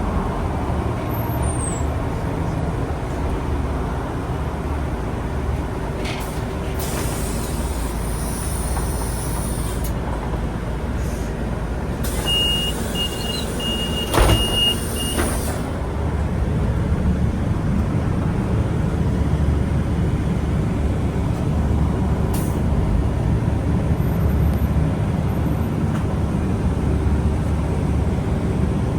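Inside a city bus: steady engine and road rumble, with pneumatic air hissing twice and a short run of beeps and a thump about halfway through.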